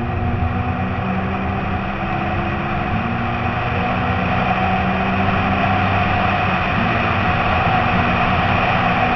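Citroën C2 rally car's engine running hard under way, heard from inside the car along with road noise. Its note shifts a couple of times, about three and seven seconds in.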